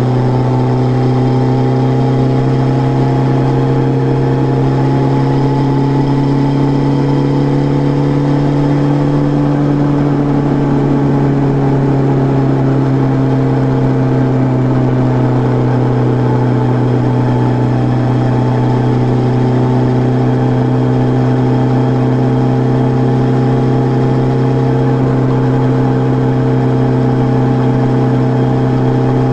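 Suzuki Bandit 600's inline-four engine running at steady, fairly high revs, its pitch rising slightly and settling back about a third of the way in.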